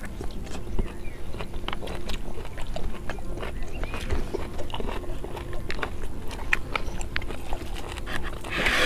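Close-miked eating sounds: chewing and lip-smacking, with many irregular small wet clicks of the mouth as food is eaten by hand.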